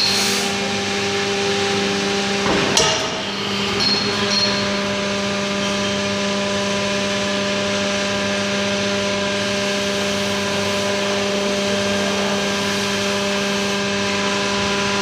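Hydraulic power unit of a double-action scrap baling press running with a steady pitched hum, with one metal clank about three seconds in.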